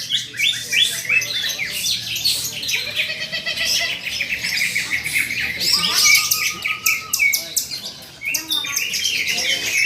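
Caged cucak ijo (green leafbirds) singing in competition, several birds at once: dense, overlapping rapid chirps, trills and short whistled sweeps.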